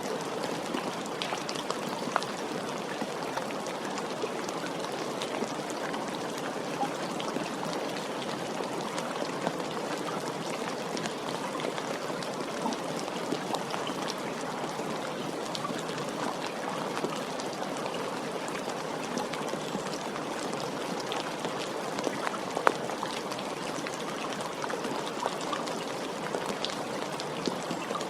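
Steady rain falling, an even hiss with many individual drops ticking and a few louder drops standing out.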